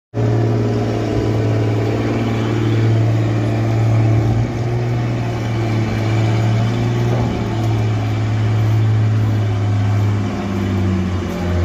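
Heavy truck's diesel engine running hard at steady revs, dropping in pitch about ten seconds in.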